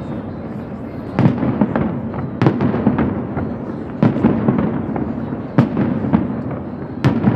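Fireworks shells bursting in a steady series: a sharp bang every second or so, each followed by a low rolling rumble.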